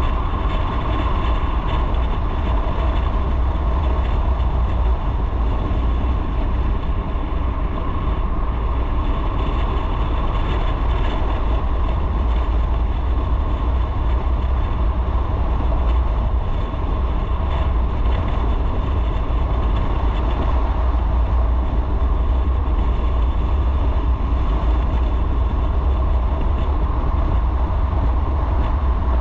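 Motorcycle being ridden on the road: a steady engine and riding noise that holds even throughout, with no gear changes or stops.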